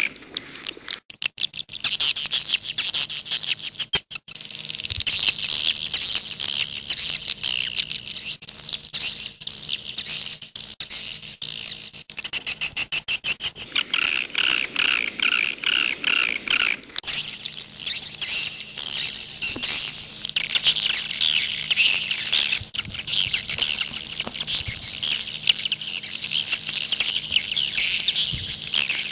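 Swiftlets twittering: a dense, unbroken stream of rapid high chirps and clicks, with a faint steady hum underneath. The sound pauses and changes abruptly about a second in and again twice later on.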